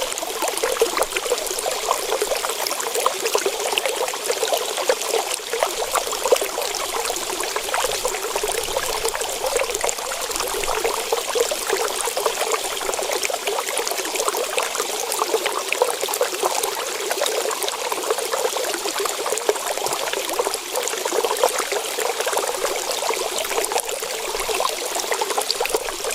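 Water running steadily with a fine crackling patter, like a tap or a stream pouring and splashing.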